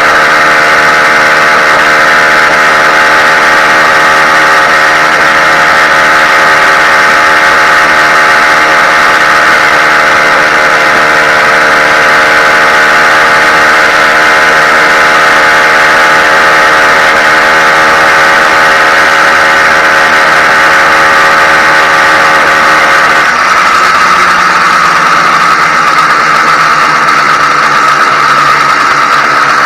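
Ported YD100 two-stroke motorized-bicycle engine running steadily at a high idle during break-in. About 23 seconds in its speed drops a little and it settles lower.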